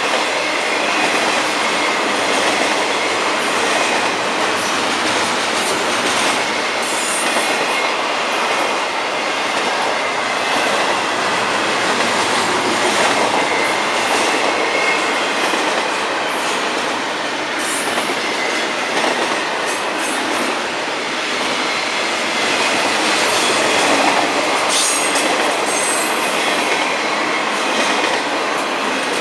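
Double-stack container well cars of a Florida East Coast Railway freight train rolling past, a loud steady rumble of steel wheels on rail. Brief high-pitched wheel squeals come about seven seconds in and again near the end.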